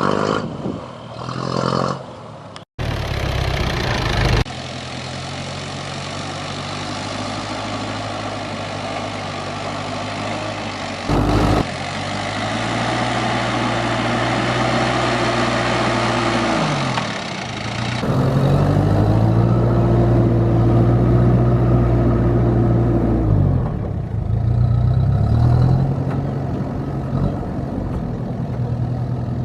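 Truck engine running and revving: its pitch climbs, holds and drops back twice, with several abrupt cuts between takes.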